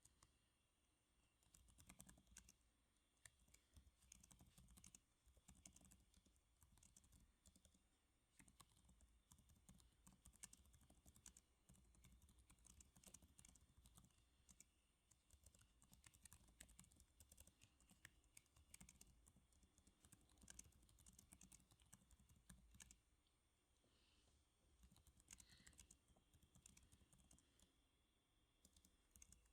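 Soft typing on a computer keyboard: quick, irregular keystrokes in runs, broken by brief pauses.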